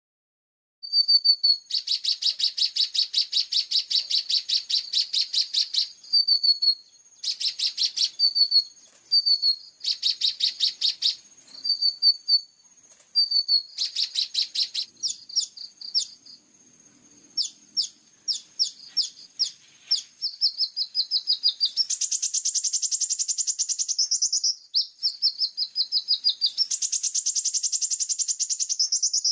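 Kolibri ninja sunbird singing loudly: high, fast runs of sharp notes broken by several dense rattling trills, the rapid-fire 'tembakan' bursts of a bird in full song.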